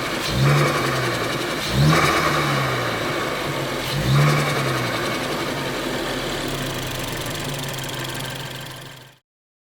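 Ford Focus ST's turbocharged engine blipped from idle three times. Each rev rises and falls back with a short hiss from the turbo and the Go Fast Bits DV+ diverter valve. It then settles to a steady idle, and the sound cuts off suddenly near the end.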